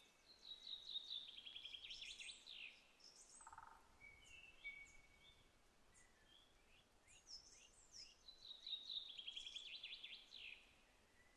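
Faint songbirds singing: short whistled notes and chirps, with a fast trill about a second in and another near the end.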